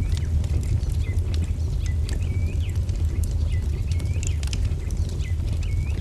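Wood fire crackling with frequent sharp pops over a steady low rumble. A bird calls again and again with short dipping-and-rising notes, about once a second.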